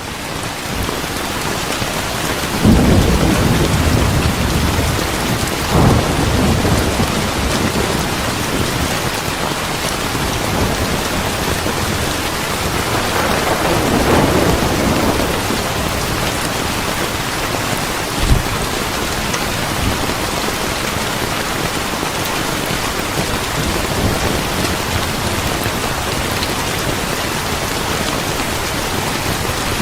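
Steady heavy rain with rolls of thunder: a rumble swells about three seconds in, another shortly after, a longer one near the middle, and a short sharp low crack about two-thirds through.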